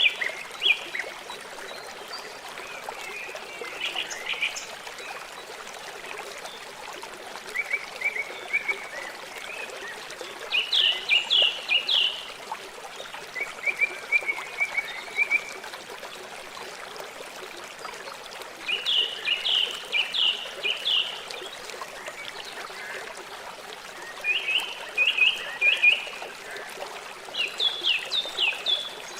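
River water flowing with a steady rushing trickle. Short bursts of rapid high chirps come over it every few seconds.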